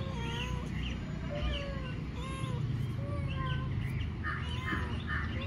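Birds calling repeatedly, short pitched chirps and whistles about once a second, over a steady low rumble.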